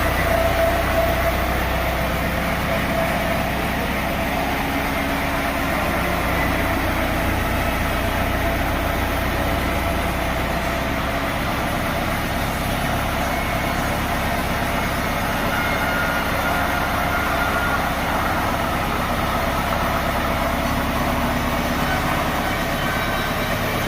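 Sawmill machinery running steadily, a continuous low engine-like hum with no cutting strokes or breaks.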